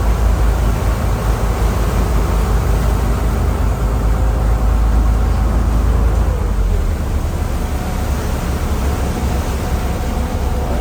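Steady rumble of wind buffeting the microphone on a moving tour boat, with the boat's engine droning underneath. The deepest rumble eases a little about seven seconds in.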